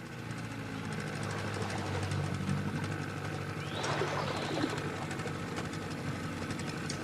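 Small boat's outboard motor running at a steady pitch, with a brief rushing sound about four seconds in.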